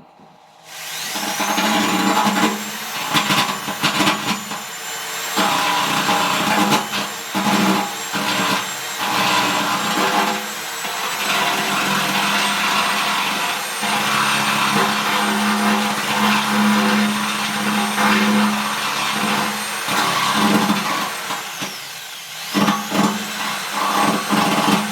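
Electric drill spinning up and running, its bit grinding and scraping at the edge of a hole in sheet steel to take off the sharp burrs. The motor's whine winds down a few seconds before the end and spins up again.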